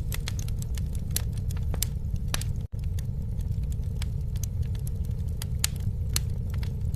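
Campfire burning: a steady low rumble of flames with frequent sharp crackles and pops. The sound cuts out for an instant a little under three seconds in.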